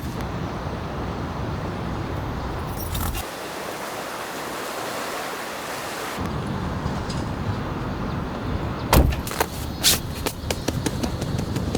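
Steady rain hiss with a low rumble. The rumble drops out for about three seconds midway. Near the end comes a quick run of sharp clicks and knocks from gear being handled.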